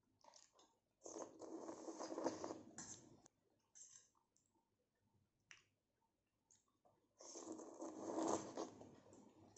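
Close-miked eating sounds from a person's mouth: two long noisy stretches of about two seconds each, one about a second in and one near the end, with small wet clicks of chewing between them.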